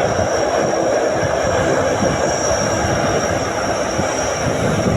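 Four-engine turboprop C-130 Hercules transport aircraft running at high power: a loud, steady noise with a thin high whine held over it.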